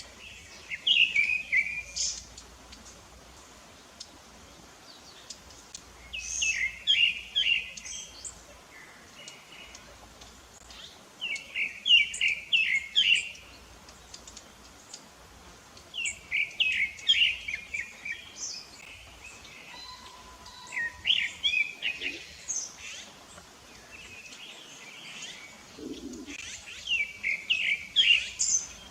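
Rufous-bellied thrush (sabiá-laranjeira) singing: short phrases of several quick notes, about one phrase every five seconds, six in all. Fainter, higher bird calls come between the phrases.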